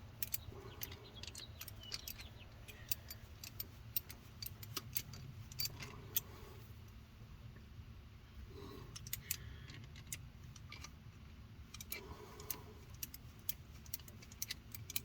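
Ratchet wrench clicking in short runs of sharp metallic clicks while a stubborn nut is worked down onto a carburetor mounting stud.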